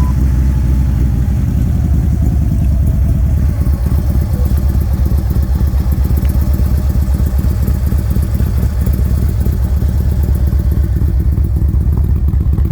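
Harley-Davidson Screaming Eagle 110 cubic inch V-twin of a 2013 Road King CVO, running through true dual Vance & Hines exhaust, idling steadily with a deep, even pulsing rumble just after being started.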